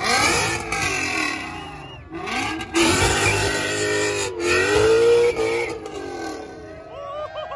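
A supercharged BMW S62 V8 in an E31 8 Series revving hard in a few bursts as the car pulls away, the engine pitch rising and falling with each blip.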